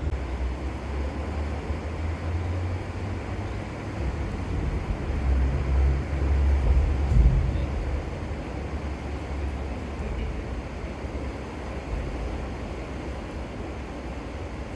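Floodwater of a river swollen by a typhoon, rushing in a steady wash. A low rumble swells through the middle and peaks about seven seconds in.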